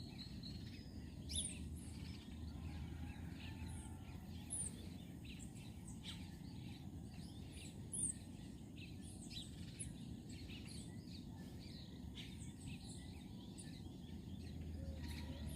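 Small birds chirping now and then in short, quick high calls over a steady low outdoor background hum.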